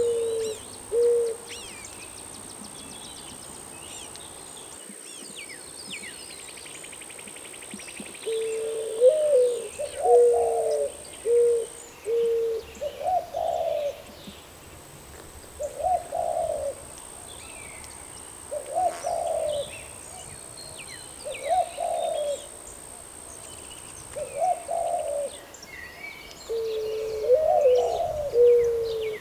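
Doves cooing. A few low coos at the start, then a run of several coos about eight seconds in, then single rising-and-falling coos about every two seconds, and another run of coos near the end. Small birds chirp faintly in the background.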